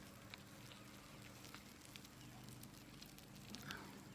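Near silence: faint, scattered clicks and crackles at irregular intervals over a low steady hum.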